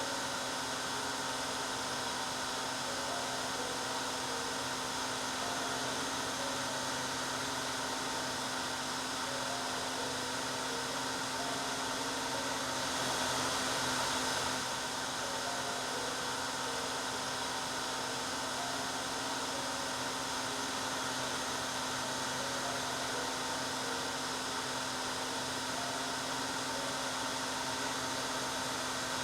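Hair dryer running steadily: an even rush of blown air over a constant motor hum, swelling slightly for a moment about halfway through.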